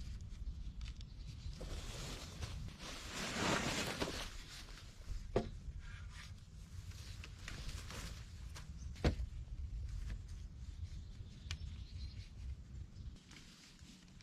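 Rustling and shuffling movement, with two sharp knocks, about five and nine seconds in.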